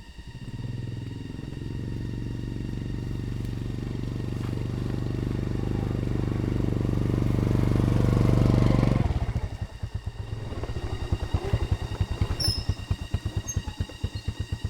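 Motorcycle engine running at a steady pitch and growing louder. About nine seconds in it abruptly drops to idle, with a quick, even pulsing of firing strokes.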